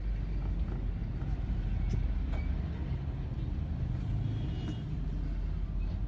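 Street traffic running past, a steady low rumble of vehicle engines and tyres.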